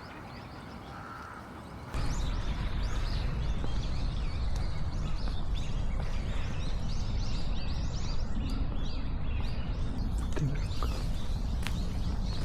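Small birds giving many short, high chirps in quick succession over a low steady rumble. The sound comes in abruptly about two seconds in.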